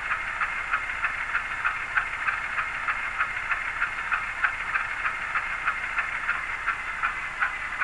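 Diesel locomotive sound from an ESU LokSound Select decoder in an HO scale GE C30-S7R model, played through the model's small speaker: a steady, thin hissing engine sound with no bass and a regular click about three to four times a second.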